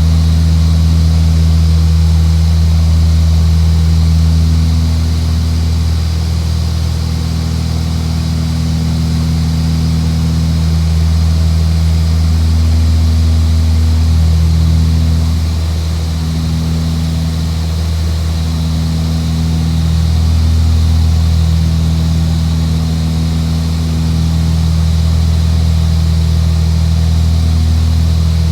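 Aircraft engine and propeller droning steadily in a low, even tone, its loudness swelling and easing slightly every few seconds.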